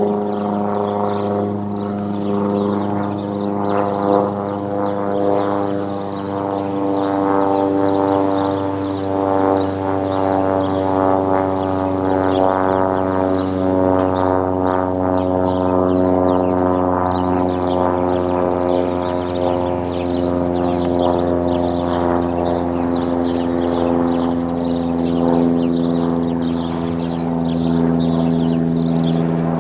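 Cessna 172S Skyhawk flying overhead, its four-cylinder Lycoming engine and propeller giving a steady, noisy drone whose pitch drops slowly and evenly.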